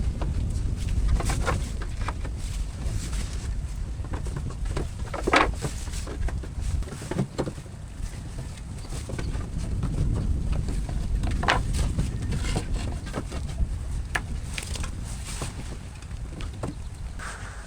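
Wind rumbling on the microphone, with scattered short knocks and taps.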